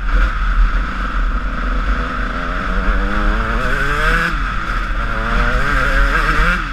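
Honda CR125 two-stroke motocross engine revving up and down while riding, its pitch rising and dropping several times as the throttle is opened and closed.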